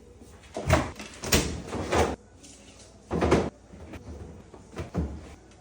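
Cupboard doors and drawers being opened and shut: about five knocks and thuds, spaced unevenly over a few seconds.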